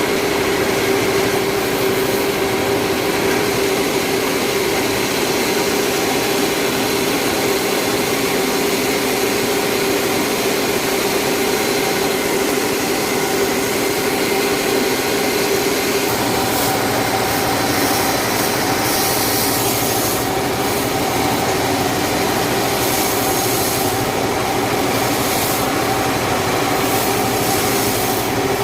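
Sawmill saw running and cutting through a large log: a steady, loud machine sound with a held tone. About halfway through the pitch shifts and a harsher high hiss comes and goes as the blade works through the wood.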